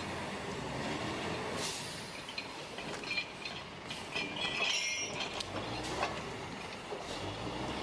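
Heavy machinery running with scattered metallic clanks and a brief high-pitched metal squeal about halfway through.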